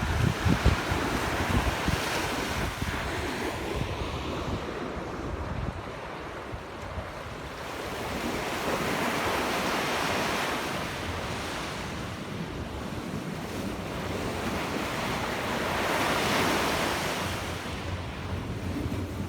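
Surf washing in, swelling twice, with wind rumbling on the microphone in the first couple of seconds.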